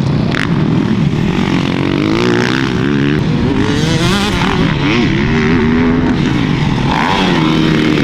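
Dirt bike engines running hard on a motocross track, the pitch rising and falling as the throttle opens and closes through gear changes, with more than one bike heard at once.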